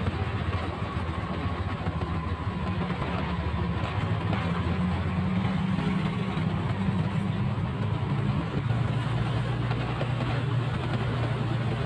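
Motorcycle engine running steadily while riding, its note shifting slightly a few times, under a haze of road and wind noise.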